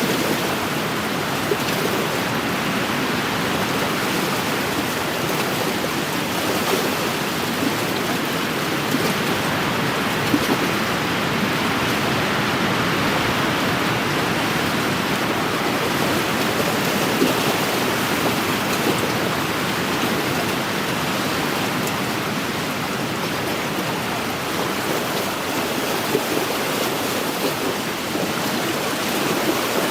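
Small wind-driven lake waves washing against the shore, a steady rushing wash with a few slightly louder laps.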